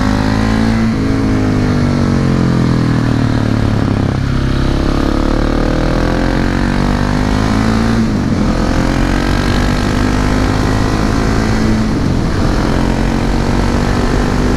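Husqvarna 701 Supermoto's single-cylinder engine through an SC-Project slip-on silencer, revving hard under way: the pitch climbs and falls again and again, breaking off about one, four and eight seconds in.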